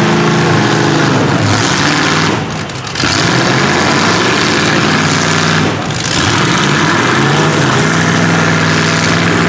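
Demolition derby small-truck and SUV engines revving hard. The pitch falls and climbs as the drivers work the throttle, with two short drops about two and a half and six seconds in.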